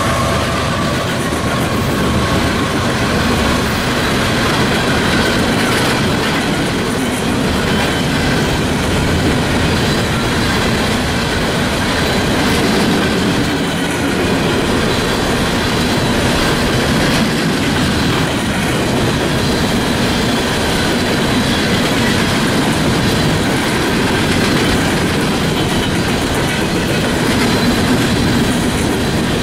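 Freight train of coal hopper cars rolling past at speed: steel wheels clattering steadily over the rails, a continuous loud rattle and rumble with no letup.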